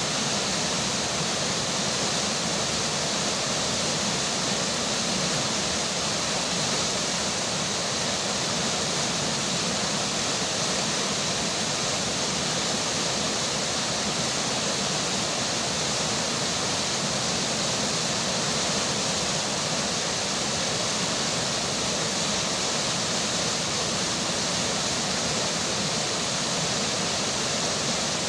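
River water flowing under falling rain: a steady, unbroken rushing hiss that does not change.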